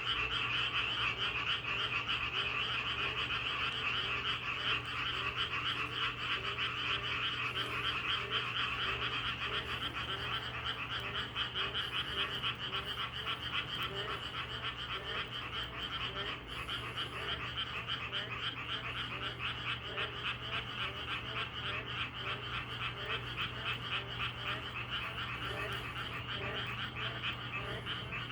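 A dense chorus of many frogs croaking together in a continuous pulsing din, with lower individual calls repeating over it.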